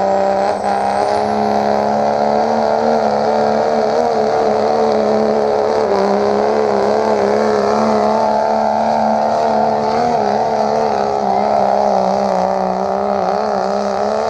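Pulling truck's engine held at high revs for a long stretch under load as it drags the sled down the track, pitch wavering slightly but steady throughout.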